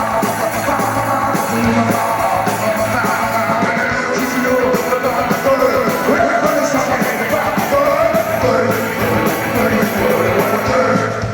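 Live band playing an up-tempo rock and roll number led by guitar, with a voice singing over it.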